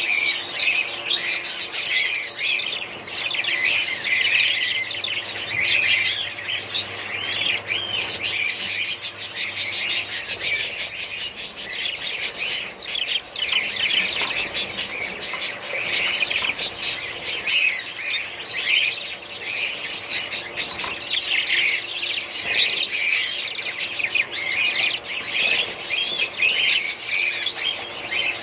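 A flock of budgerigars chattering and warbling: many rapid, overlapping chirps with no pause.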